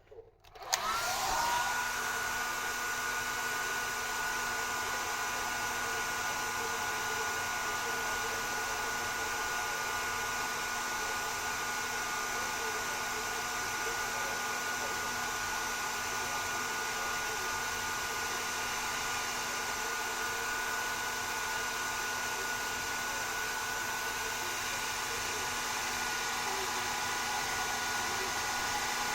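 Hair dryer switched on about a second in, its motor whine rising quickly to a steady pitch, then blowing steadily over an even rush of air.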